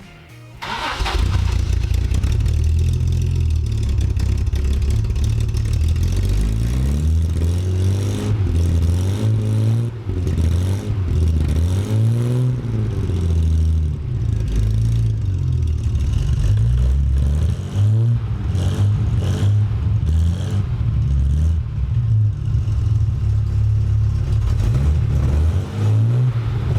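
Triumph TR6 straight-six catching about a second in on a cold start, then running loud through a twin Monza exhaust and being revved up and down repeatedly.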